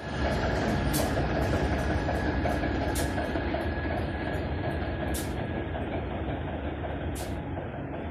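TEM2 diesel shunting locomotive running with a steady rumble that slowly grows fainter. A short high-pitched sound repeats about every two seconds, and a thin steady whine fades out about two-thirds of the way through.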